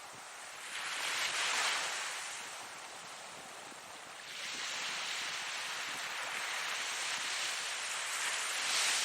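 Ocean waves breaking and washing in, a hissing surf that swells and fades: one wave peaks about a second and a half in, and a longer wash builds from about the middle to another peak near the end.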